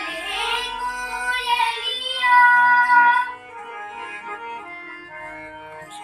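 Singing, a high voice that glides between notes over sustained instrumental accompaniment. The loudest part is a long held note about two to three seconds in, after which the music goes on more softly.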